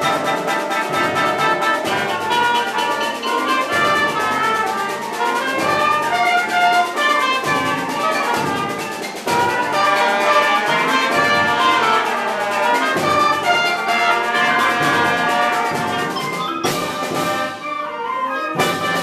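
Orchestral music with brass and percussion, changing abruptly shortly before the end.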